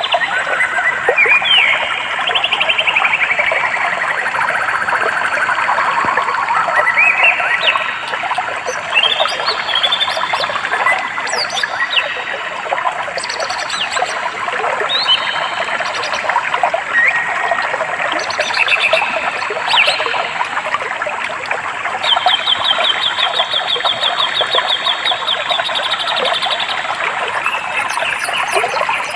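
Birds singing over a steady rush of running water: descending whistled phrases in the first few seconds, scattered chirps and whistles, and a long rapid trill about three quarters of the way through.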